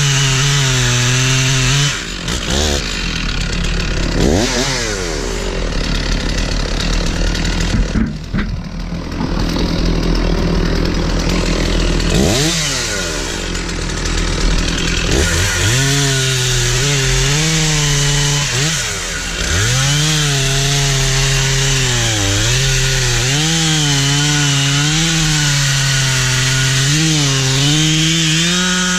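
Stihl 046 two-stroke chainsaw cutting into a tree trunk. The engine pitch sags under load and wavers, with a few drops off the throttle that rev quickly back up.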